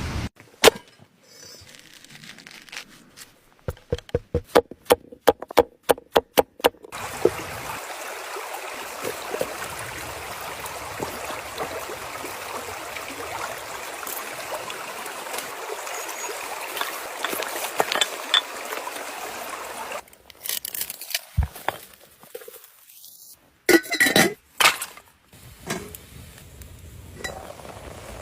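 Utensils clinking against a dish, with a run of about ten quick taps, then a steady hiss lasting about twelve seconds, and a few more clinks near the end.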